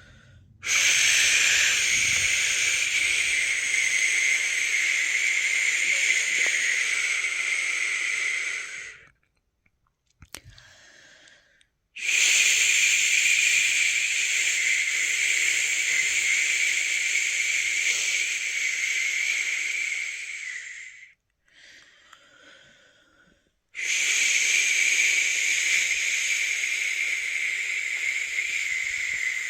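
A person making long, steady 'shhh' shushing sounds, three of them, each about eight or nine seconds long, with short quiet pauses between. This is the shushing used to lull a newborn baby to sleep.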